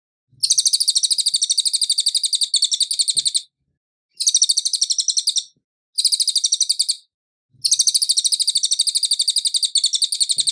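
Cililin, the small songbird sold in Indonesia as a song-tutor bird, singing in four bursts of rapid, high-pitched trilling notes with short pauses between. The first and last bursts are about three seconds long and the middle two about a second each.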